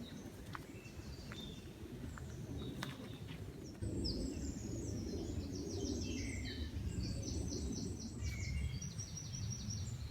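Low steady rumble of an airplane passing overhead, growing louder about four seconds in. Small songbirds chirp and sing fast, high trills over it, mostly in the second half.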